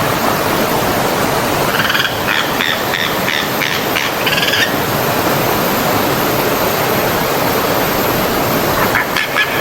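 Stream water rushing steadily. About two seconds in, an animal gives a rapid series of high pulsed calls, about four a second, for two to three seconds, and a similar series starts near the end.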